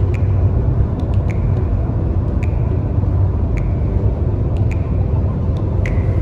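Car road noise heard inside the cabin while driving: a steady low rumble with occasional sharp clicks and rattles at irregular intervals.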